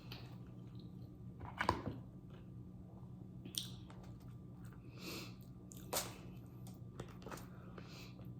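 Close-miked eating sounds: chewing with a few crunchy bites and wet mouth smacks, the loudest crunch about one and a half seconds in and another near six seconds. A steady low hum runs underneath.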